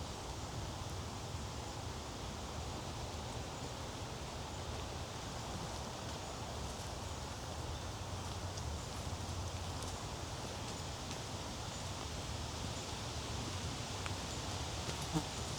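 Rustling of leaves and brush on a woodland trail over a steady outdoor hiss, with one short sharp click near the end.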